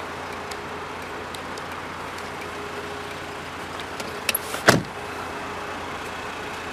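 A 1999 Volkswagen Passat B5's door shut with a single thump about four and a half seconds in, after a couple of light clicks from the handle and latch, over a steady background hiss.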